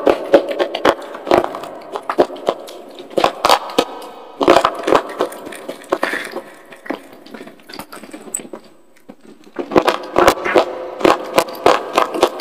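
Close-miked biting and crunching of hard, chalky slate pencil (SP) crumbles: quick sharp cracks and crunches in clusters, easing off for a couple of seconds about two-thirds through, then a fast run of crunches again near the end.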